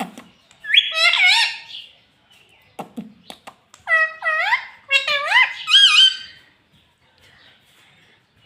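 Pet parrot calling in three bursts of high, warbling, pitch-bending calls, with a few short clicks between the first and second bursts.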